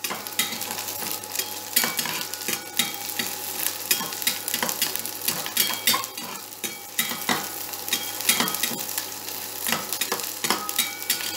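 Sliced onions sizzling in hot mustard oil in a kadai, with a spatula scraping and tapping against the pan as they are stirred. The tapping comes several times a second, at an uneven pace.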